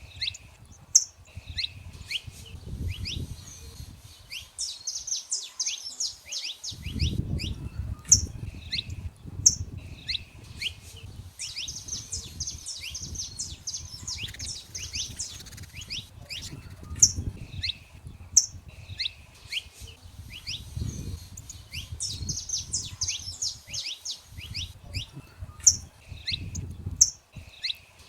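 Saffron finches singing: sharp high call notes in pairs and rapid trilled phrases, repeating every few seconds, over a low rumble.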